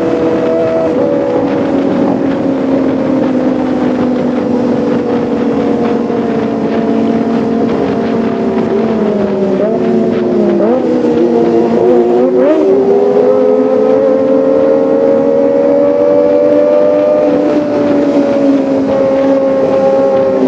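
Kawasaki ZX-25R's 249 cc inline-four engine running at high revs with a steady high pitch. A few quick dips and rises in pitch about halfway through follow the throttle changes, then it settles back to a steady, slightly rising pitch.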